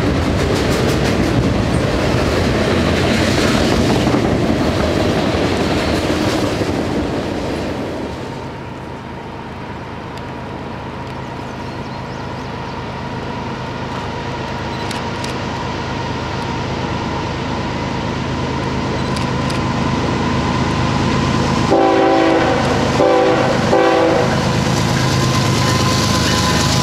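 Freight cars rolling past with a steady rumble and clatter of wheels on rail. About 8 seconds in, this gives way to an approaching freight led by GE ES44AC and AC4400CW diesel locomotives, their engines droning and growing louder. Near the end the lead locomotive sounds its horn in a few short blasts.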